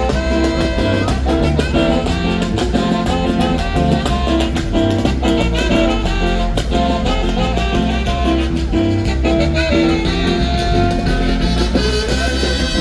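Upbeat Latin band music with horns over a steady drum beat and heavy bass.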